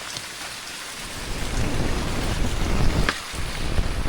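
Steady rain falling, with a low rumble of wind or handling on the microphone that grows louder after about a second.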